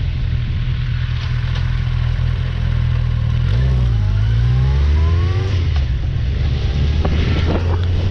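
Motorcycle engine running under way, with wind rushing over the microphone. About halfway through, the engine note dips and then climbs again as it revs up.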